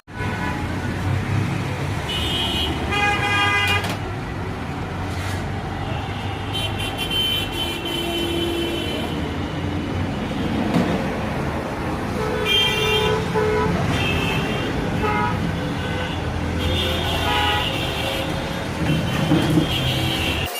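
Road traffic running steadily, with vehicle horns honking again and again, several short toots and some longer blasts.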